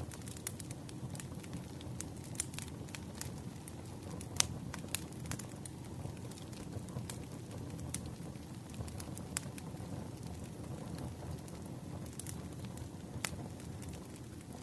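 Campfire crackling: a steady low rumble of burning wood with irregular sharp pops and snaps scattered throughout.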